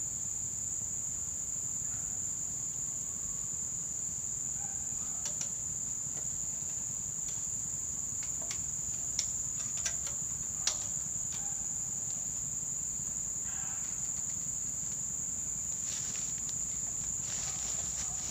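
Steady high-pitched insect chirring, typical of crickets, with a few scattered sharp clicks and knocks, the loudest about halfway through and a cluster near the end.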